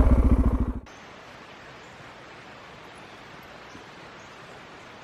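Suzuki DR650's single-cylinder engine idling, cutting off abruptly under a second in, leaving a faint steady hiss.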